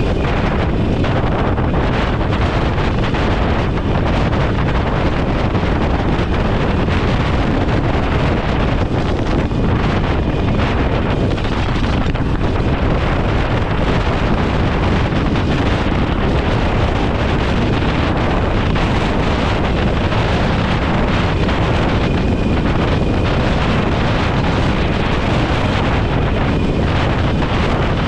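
Steady, loud wind rush over the microphone of a motorcycle-mounted camera while riding at speed, drowning out any clear engine note.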